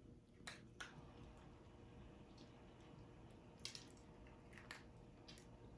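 Faint, scattered clicks and crunches of a dog eating from a food bowl, as she tries a new adult dog food.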